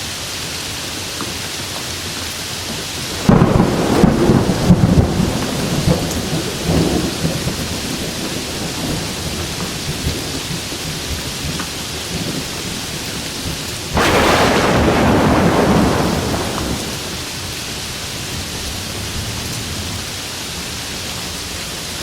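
Steady rain falling, with two claps of thunder: one about three seconds in that crackles and rumbles away over a few seconds, and a second about two-thirds of the way in that rolls for a few seconds before fading.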